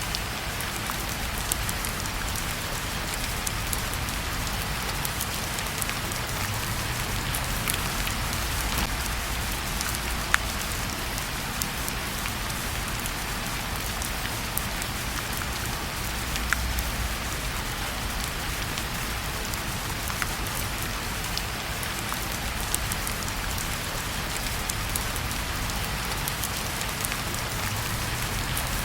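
Steady rain falling, an even hiss with scattered sharp ticks and one louder click about ten seconds in.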